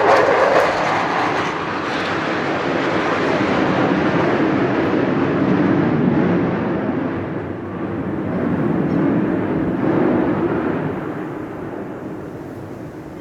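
Aircraft engine noise from a low pass, a loud steady rush that slowly fades away as the plane moves off.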